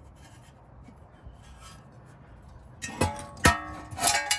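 Worn front wheel bearing in a removed Honda Accord steering knuckle and hub assembly, turned by hand. About three seconds in it gives a couple of sharp knocks and a ringing, rough metallic noise, the sign of the bad bearing.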